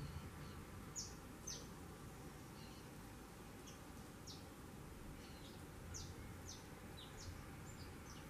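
Small birds chirping: short, high, downward-slurred notes, about a dozen scattered irregularly, over faint steady background noise.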